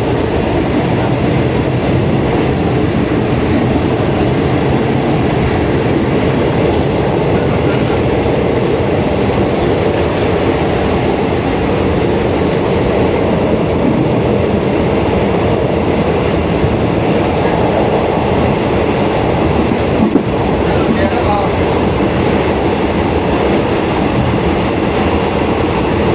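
Train running steadily along the track: a continuous rumble and rail clatter, with a brief knock about twenty seconds in.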